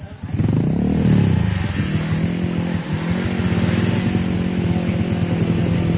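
Dirt bike engine revving up sharply about half a second in, its pitch climbing and then dropping back, then running at a steady speed.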